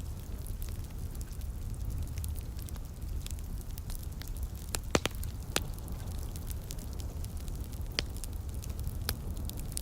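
Wood fire crackling in a fireplace, with scattered sharp pops, the loudest about five seconds in, over a steady low rumble.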